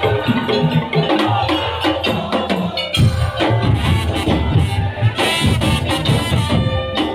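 Madurese daul (tong-tong) ensemble music: a fast, dense rhythm of percussion with pitched melodic instruments over it. Heavier low drumming comes in about three seconds in.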